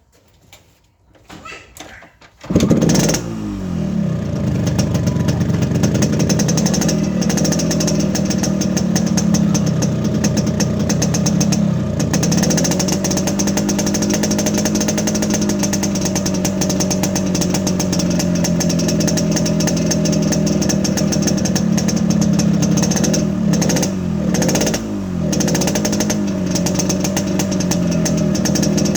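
Yamaha RX-King's 135 cc two-stroke single-cylinder engine, on its standard exhaust, starting suddenly about two and a half seconds in and then idling, with a few small rises and dips in pitch.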